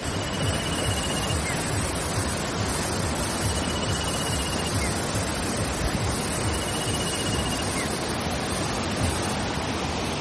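Steady rush of water, even and unbroken. A thin, high, steady whistle about a second long repeats three times, roughly every three seconds.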